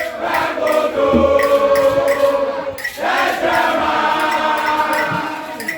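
A large group of voices chanting a song together in unison, in sustained phrases with a short break about three seconds in. A steady beat of sharp strikes keeps time underneath.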